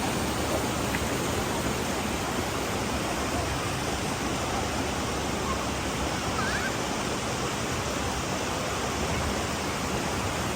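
Steady rushing of a waterfall and its stream of falling water, at a constant level.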